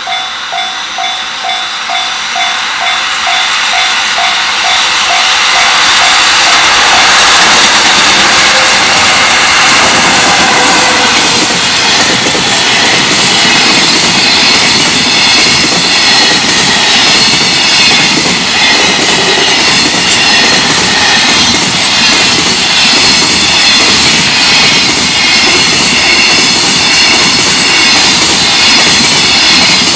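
Level-crossing warning bell ringing in rapid repeated dings, then a long container freight train arrives about six seconds in and runs past at speed, its wheels rumbling and clattering steadily over the rails and drowning out the bell.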